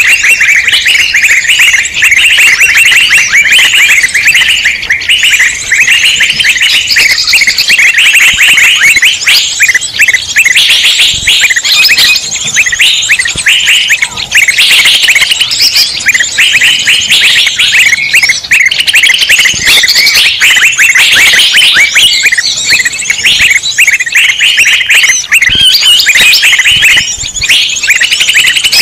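A dense, loud chorus of many small birds chirping and chattering at once, overlapping calls with no pause: a bird-lure (pikat) recording meant to draw in wild birds.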